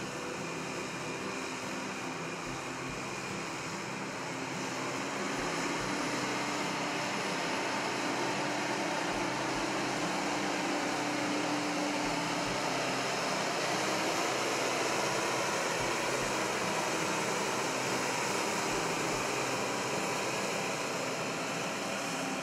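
Steady mechanical running noise, growing a little louder about five seconds in.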